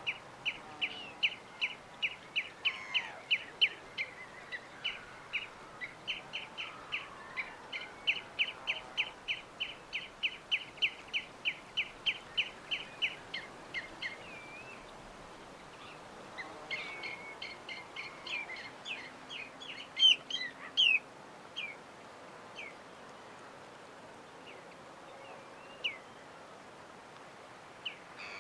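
A bird chirping in a long, even series of about three short chirps a second, then a more varied burst of calls, the loudest near the middle, and a few scattered chirps after. A steady faint hiss lies beneath.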